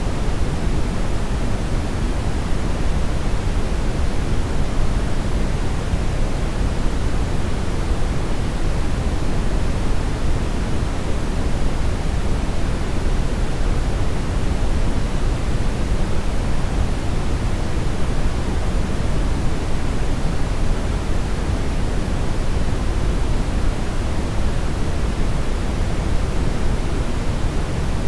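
Brown noise: a steady, unchanging rushing hiss weighted toward the low end.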